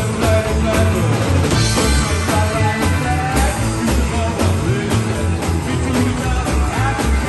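Neo-rockabilly band playing a rock-and-roll number live, driven by a bass line that steps from note to note on every beat.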